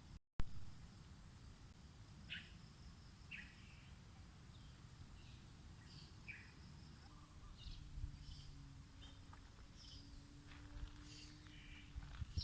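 Outdoor tropical park ambience: scattered short bird chirps every second or so over a thin, steady high insect whine and a low rumble of wind on the microphone. A sharp click comes just after the start, following a brief dropout.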